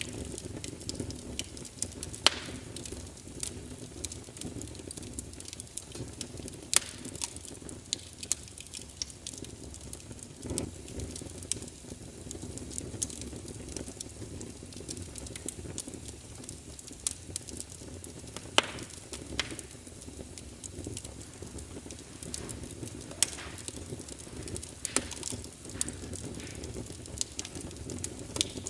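Wood fire burning in a fireplace, crackling steadily with a low hiss and irregular sharp pops, the loudest about 2, 7, 18 and 23 seconds in.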